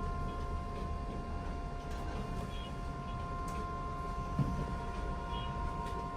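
Steady low rumble with a constant electrical-sounding hum from the cruise ferry's machinery, heard from on board.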